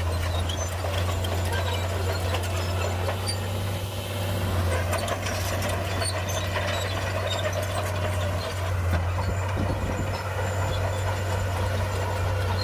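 Shantui crawler bulldozer's diesel engine running at a steady low drone, with scattered metallic clicks and clanks on top.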